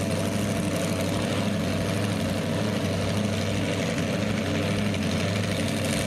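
A big engine idling steadily, with no revving.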